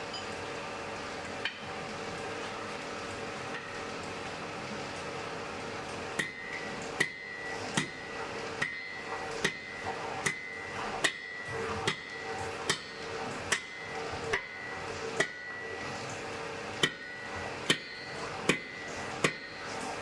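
Blacksmith's hammer striking on an anvil, starting about six seconds in and going on at a steady pace a little faster than one blow a second, each blow with a short metallic ring. A steady hum runs underneath.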